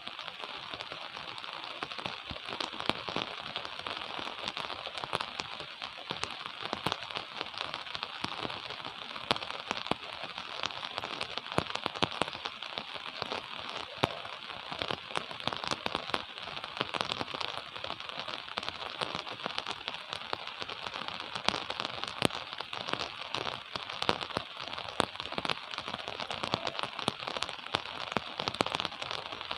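Steady gentle rain falling, with many close, sharp drop impacts ticking irregularly through the even hiss.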